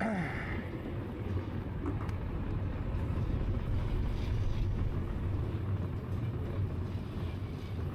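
Steady low rumble of wind buffeting the microphone and tyres rolling on the path while riding an electric bike.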